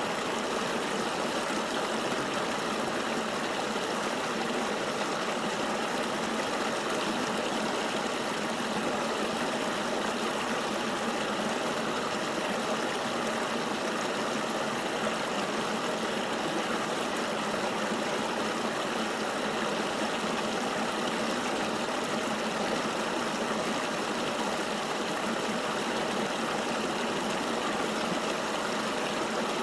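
Flowing river water: a steady, even rush with almost no deep rumble.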